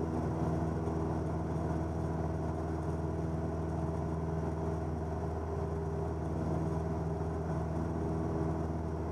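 Cessna 172N's four-cylinder Lycoming engine and propeller droning steadily in flight, a constant low hum with no changes.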